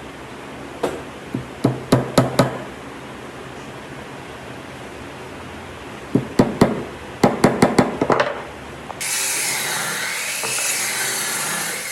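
A series of sharp knocks of a hammer on wood: a few scattered blows, then a quicker run of them. About nine seconds in, a power tool starts and runs steadily with a wavering whine.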